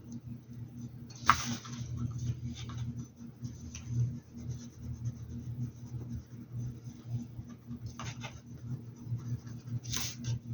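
Paintbrush strokes brushing and scratching across a hat, with three louder scratchy strokes (about a second in, near eight seconds and near the end), over a low steady hum.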